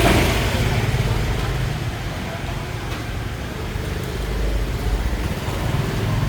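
Street traffic: motor vehicle engines passing over a steady road hum, louder at the start and again about five seconds in.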